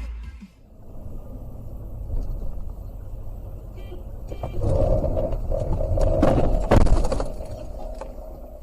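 Car on the road with a low engine and road rumble. A steady horn-like tone sounds for about three seconds, and near its end comes a loud, sharp collision impact.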